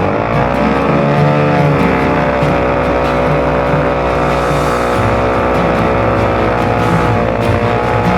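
Yamaha WR250R's single-cylinder four-stroke motorcycle engine pulling under way: it rises in pitch over the first second or so, then runs at a steady pitch, dipping briefly near the end.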